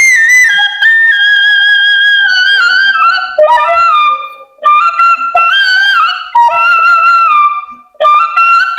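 Bamboo flute (bansuri) playing a slow single-line melody of held, gently bending notes, in phrases with short breaks between them.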